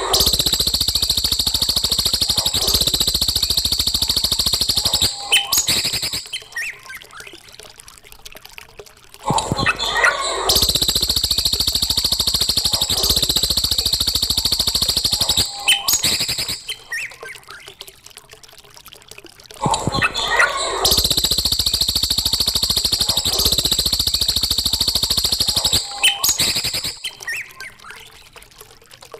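Recorded songbird song of the kind played to tutor young cage birds: a dense, high-pitched chattering trill that repeats as an identical phrase about every ten seconds, three times, with quieter gaps between.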